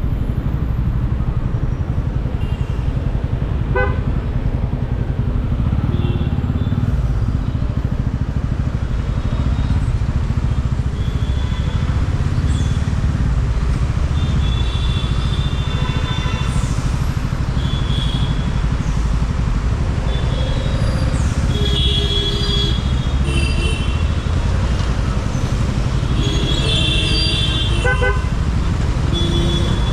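Motorcycle riding in heavy traffic: a steady low rumble of engine and wind on a helmet-mounted mic, with other vehicles' horns honking in short blasts, more often in the second half.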